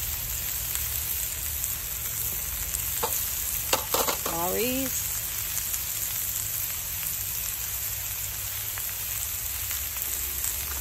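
Chicken and vegetables sizzling steadily in oil and butter in a hot cast iron skillet over campfire coals, the sound of a pan that is good and hot. A few sharp clicks come about three to four seconds in.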